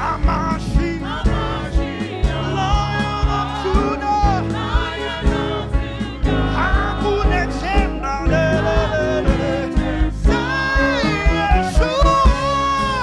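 Gospel praise music: a singer's voice over a live band with bass, guitar and a regular drum beat.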